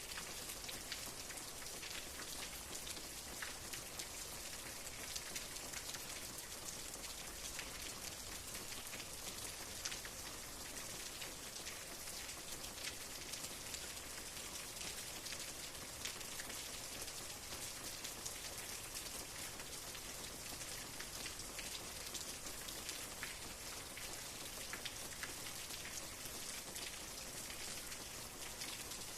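Steady rain falling, a continuous hiss with many small drop impacts pattering throughout.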